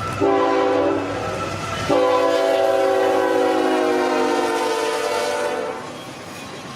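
Locomotive air horn sounding a chord of several notes: a short blast, then a long one about a second later that cuts off near the end, leaving a softer rumble of the passing train.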